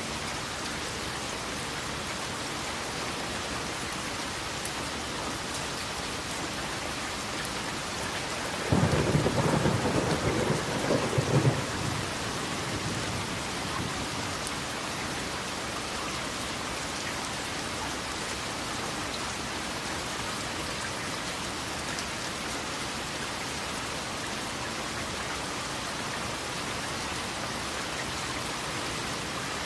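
Steady heavy rain falling, with a sudden loud thunderclap about nine seconds in that rumbles for around three seconds and dies away.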